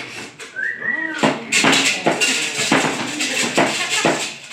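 Stage percussion: metal struck in a steady rhythm of clanks, about two to three a second, with a short pitched call that rises and falls about a second in.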